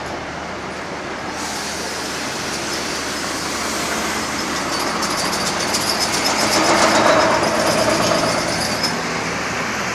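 A large coach bus driving past close by, its engine and tyre noise swelling to a peak about seven seconds in and then easing off, with a fine rapid rattle in the treble through the middle of the pass.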